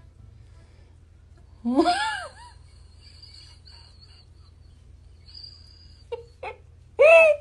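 A domestic cat meowing twice, each meow a drawn-out call that rises and falls in pitch. The first comes about two seconds in and the second near the end, with two short sounds just before it.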